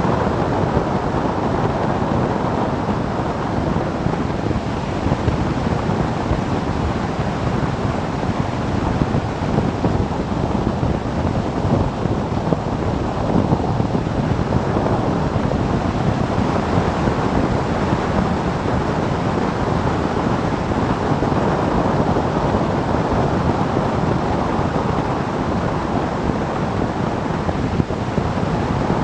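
Steady wind rush over the microphone of a motorcycle travelling at road speed.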